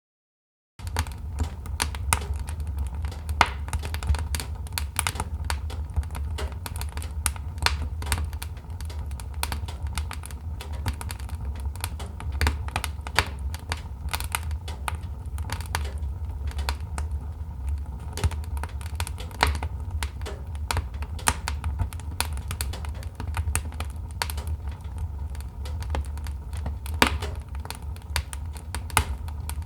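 Wood fire crackling in a fireplace: irregular sharp pops and snaps, some louder than others, over a steady low rumble of the flames. It starts just under a second in.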